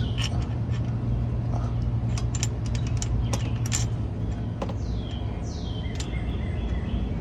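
Small metal clicks and clinks of hands and parts working a C-clip onto the axle inside an open rear differential, over a steady low hum.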